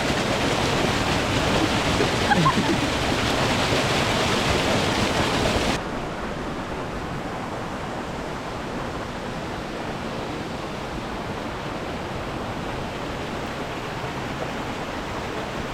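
Waterfall water rushing steadily. About six seconds in it drops suddenly, becoming softer and duller, then runs on evenly.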